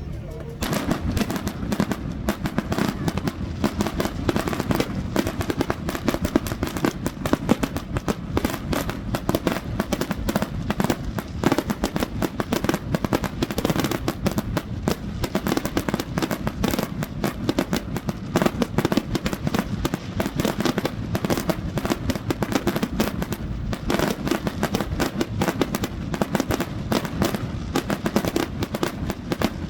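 Fireworks going off in a rapid, continuous barrage of bangs and crackles, many per second, starting about half a second in.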